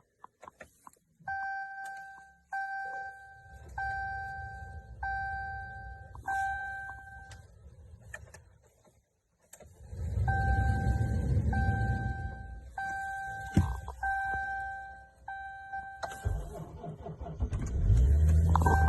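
A truck's cabin warning chime dings over and over, about once a second, with a brief pause partway. Near the end the 3.0 L EcoDiesel V6 of a 2016 Ram 1500 cranks and starts in deep cold, about −26 °C.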